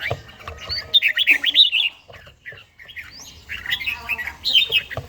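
Red-whiskered bulbul singing: two bursts of quick, warbling chirps about a second long each, with a short pause between them.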